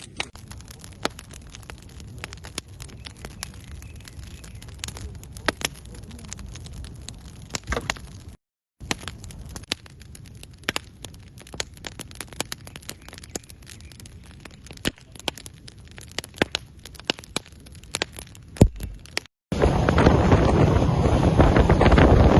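Wood campfire crackling, with many sharp pops and cracks over a low rumble, broken by two short silences. About three seconds from the end it gives way to loud wind buffeting the microphone.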